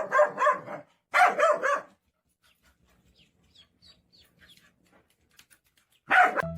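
Dog barking: a quick run of barks at the start, another run about a second in, and one more near the end.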